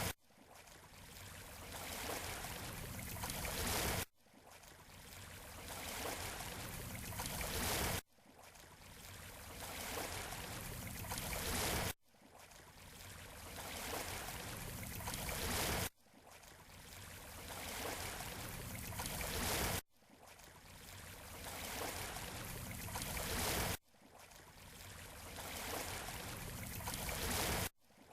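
Sea waves washing on a beach shore, as a short recording repeated about every four seconds: each wash swells steadily louder and then cuts off abruptly.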